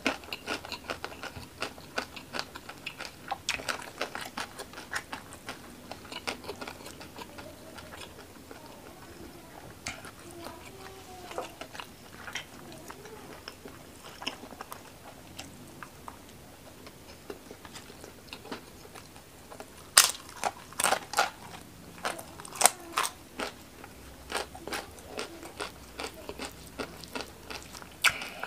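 Close-miked chewing and crunching of crisp fried rempeyek crackers, with many small crackles and mouth clicks. A run of loud crunching bites comes about twenty seconds in.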